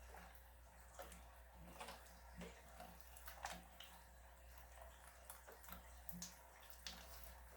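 Slime being played with, making faint, irregular clicks and small wet pops, roughly one or two a second.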